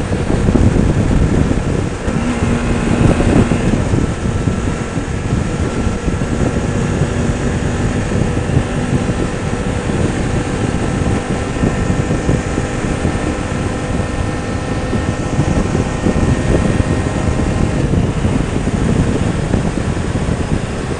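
Motorcycle engine running under way, mixed with wind noise buffeting the microphone.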